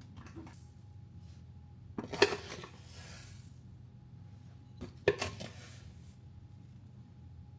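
Dishes and kitchen utensils clinking, in two short bursts: a little over two seconds in and again about five seconds in, over a faint steady low hum.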